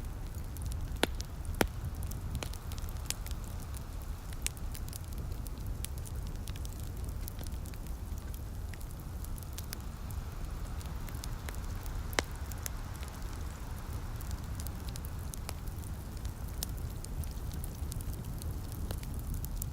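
Wood fire crackling with scattered sharp pops, the loudest about a second in, just after that, and about twelve seconds in, over a steady hiss of light rain and a low steady rumble.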